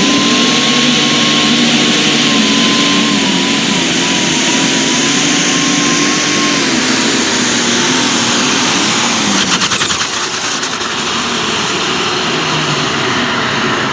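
Pulling tractor or truck engine running flat out on a pull, with a high steady whine over it; the whine and engine note drop away about nine and a half seconds in as the throttle comes off.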